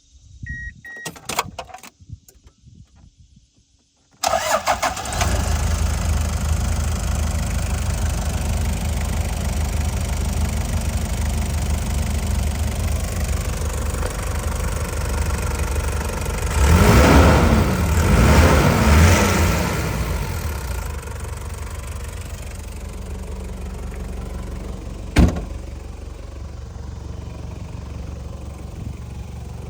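Toyota HiAce KZH106's 3.0-litre 1KZ-TE turbo-diesel engine started: a few clicks and a short beep, then it fires about four seconds in and settles to a steady diesel idle. Around the middle it is revved twice briefly, then idles a little lower, with one sharp knock near the end.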